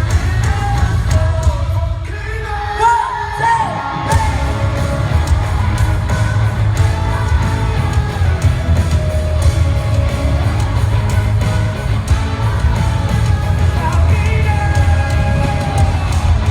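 Live pop-rock band playing with a lead singer over heavy bass and drums, and the crowd yelling along. The bass drops out about two seconds in and comes back in full about two seconds later.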